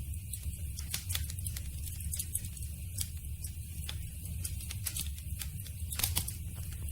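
Wood campfire crackling: frequent irregular sharp snaps and pops over a steady low rumble, with one louder pop about six seconds in.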